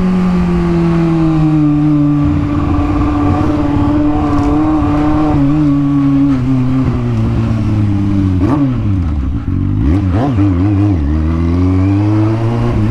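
Kawasaki Z750 inline-four motorcycle with an open aftermarket exhaust, ridden. The engine note sinks slowly for several seconds, then dips and climbs sharply a couple of times around eight to ten seconds in, like throttle blips through gear changes, and rises again near the end.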